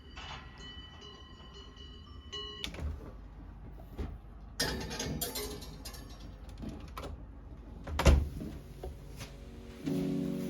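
Scattered knocks and clatter with a loud thump about eight seconds in, then music begins near the end.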